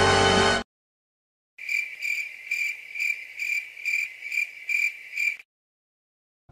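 Cricket chirping sound effect, the stock 'awkward silence' clip: a steady run of about nine short high chirps, roughly two a second. A music clip cuts off about half a second in, followed by a second of silence before the chirps begin.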